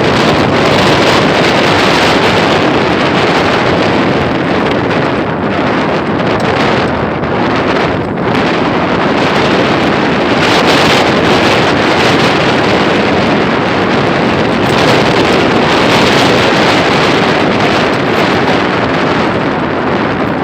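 Strong wind blowing across the microphone, a loud, steady rushing that swells and dips slightly.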